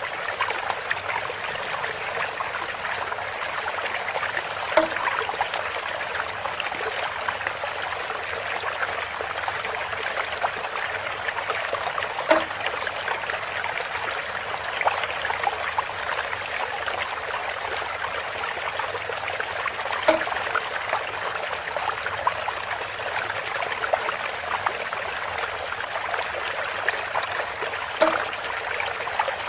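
Water trickling steadily through a bamboo spout, with a short hollow knock or plop about every eight seconds, four times.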